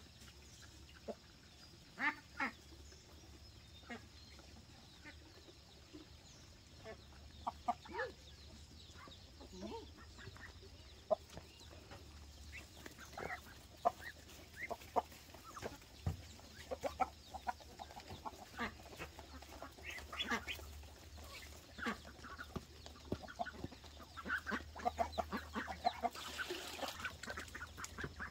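Farmyard poultry calling in short, scattered calls that come more often near the end.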